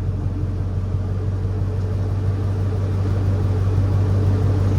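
GMC Sierra pickup's headered 5.3 L V8 running steadily with a low drone, getting slowly louder.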